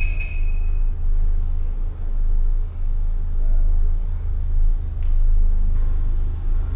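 Deep, steady low rumble with slow swells in loudness. A high tone carries over at the start and fades out about a second in.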